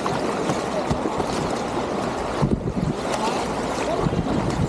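Whitewater river rapids rushing steadily around a kayak, the sound briefly dulled about halfway through.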